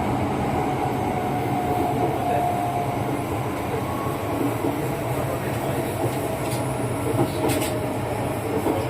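Running noise heard inside a Kintetsu 9020-series electric train coupled with a 1620-series set: a steady rumble of wheels on rail, with a faint whine over the first few seconds. There are a couple of sharp clicks a few seconds later.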